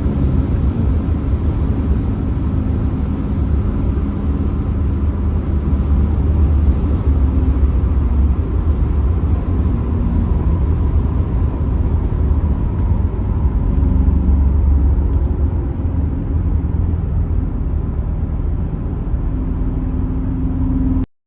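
2002 Pontiac Trans Am WS6's LS1 V8 running at a steady cruise with road noise, heard from inside the cabin. It cuts off suddenly near the end.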